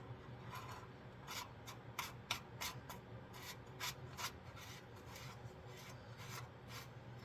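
Short, irregular scrapes and clicks of a steel plug being threaded by hand into a Chevy Silverado rear differential's fill hole, over a faint steady hum.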